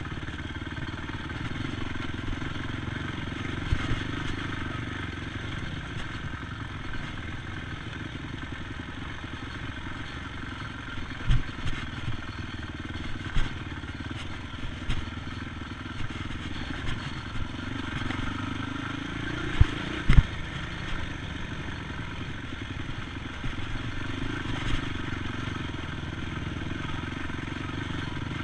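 ATV engine running steadily, its pitch rising and falling briefly about two-thirds of the way through, with scattered sharp knocks and thumps.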